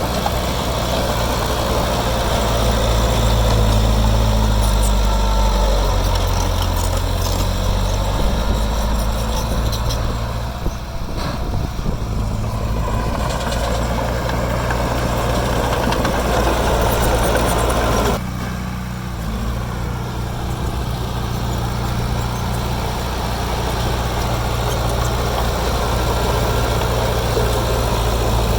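Heavy construction machine's diesel engine running steadily, its pitch shifting a few times, with a sudden change in the sound about eighteen seconds in.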